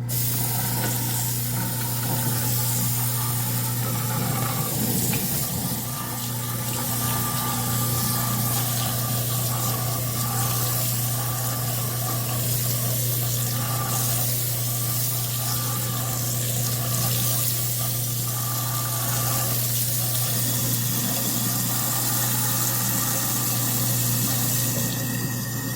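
Garbage disposal under a kitchen sink running after being switched on, a steady motor hum under an even rushing hiss. The jammed disposal has been freed and now spins freely.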